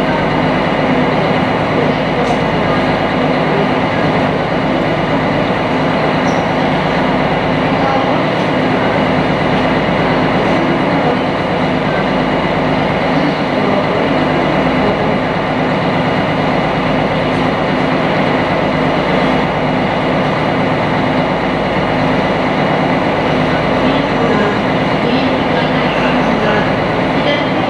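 Sightseeing boat's engine running steadily while the boat cruises, heard on board as a loud, even drone with a constant hum.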